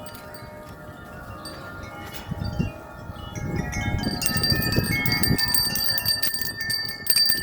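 Several wind chimes ringing in strong, gusty wind, many overlapping tones at once, growing louder and busier about halfway through, with a low rumble under them in the middle.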